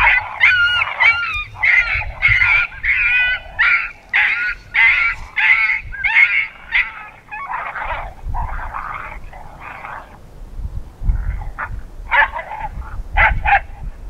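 Electronic predator call playing a coyote pup distress sound: a run of high, wavering yelps and whines that turns into fewer, sharper yips in the second half. Low wind rumble sits underneath.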